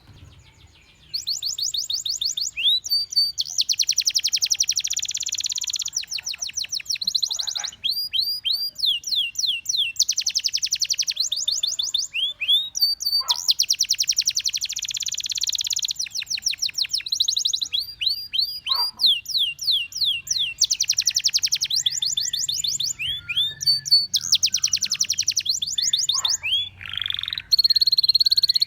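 Canary singing in long phrases of fast trills and rolling runs of rapidly repeated high notes, with short breaks between phrases, starting about a second in.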